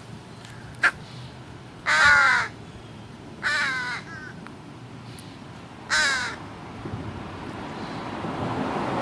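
American crow cawing three times: harsh, evenly separated caws a second or two apart. A short sharp click comes about a second in, and a broad rush of noise builds near the end.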